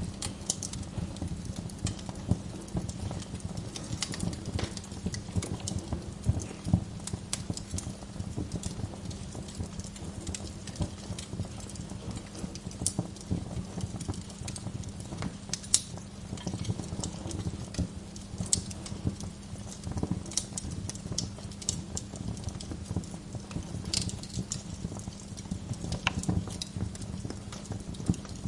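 Wood fire crackling in a fireplace: a steady low rumble of burning logs with frequent irregular pops and snaps, one sharper pop about halfway through.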